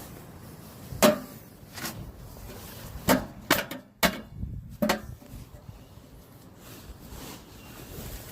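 Irregular sharp knocks and clunks of hands-on installation work, about six strikes in the first five seconds, then quieter.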